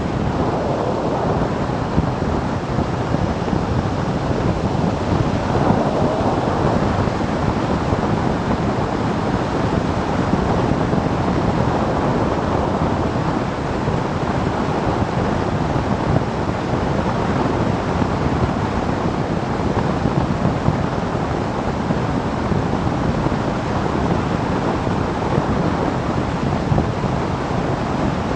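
Steady wind noise buffeting the microphone of a camera riding on a moving motorcycle, with the bike's running noise beneath it.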